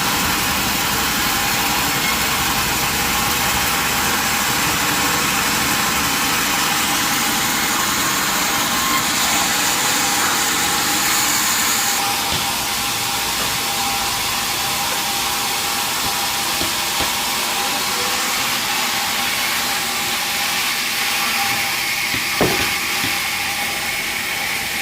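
Sawmill machinery running steadily, with a high hiss that stops about halfway through and a single knock near the end.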